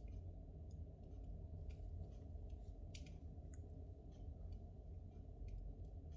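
Spruce logs burning in a fireplace: a steady low rumble with irregular sharp crackles and pops.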